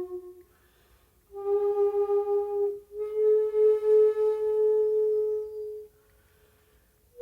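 Solo shakuhachi, the Japanese end-blown bamboo flute, playing slow held notes. A note dies away at the start, then after a pause comes a note of about a second and a half, followed by a slightly higher note held for about three seconds. There is a further pause near the end.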